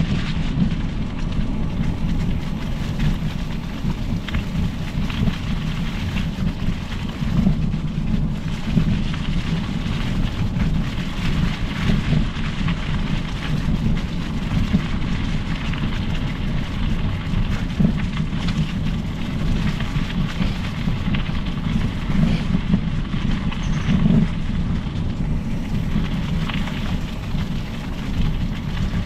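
Steady low rumble of wind buffeting the microphone, with the hiss of mountain-bike tyres rolling on the trail, while riding.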